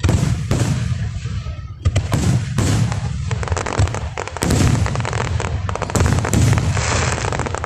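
Aerial fireworks going off in quick succession: deep booms of bursting shells overlapped by sharp pops and crackling. The crackle grows densest from about halfway through.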